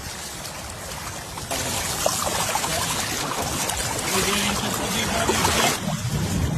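Water flowing through a hand-dug channel in sand, the flow getting louder about a second and a half in, with a brief dip near the end.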